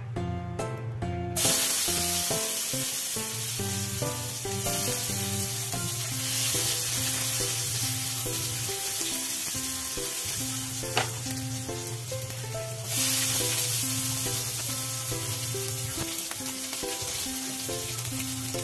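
Chopped garlic and onion frying in oil in a stainless steel pan, a steady sizzle that starts suddenly about a second in and grows louder twice, with background music playing throughout.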